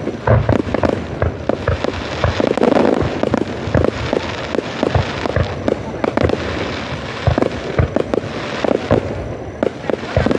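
Fireworks display going off: a rapid, irregular run of bangs and crackling bursts, one after another with no pause.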